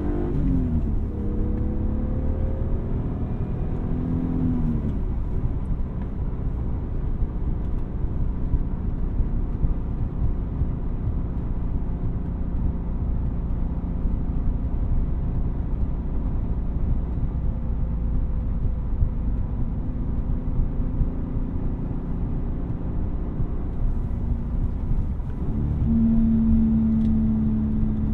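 1999 BMW M3's S52 3.2-litre straight-six engine and exhaust on the move. The revs rise and fall twice in the first few seconds, then hold steady with road rumble, and pick up under load with a stronger drone near the end.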